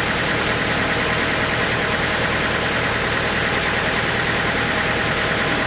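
Sawmill machinery running steadily: an even engine-like drone with a low hum and no breaks.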